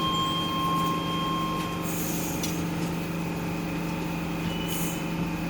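Docklands Light Railway train interior with a steady electric hum, a steady electronic tone that stops about two seconds in, and two short hisses of air.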